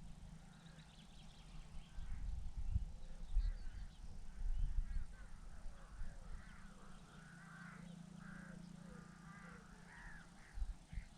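Crows cawing, a run of repeated harsh calls that thickens through the middle and end, over a low rumble.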